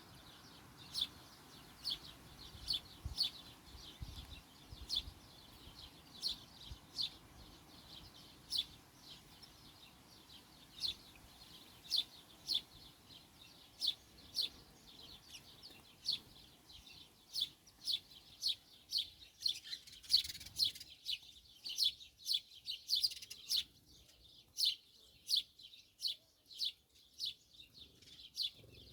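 Small bird calling: short, high chirps repeated about once a second, coming faster in the second half.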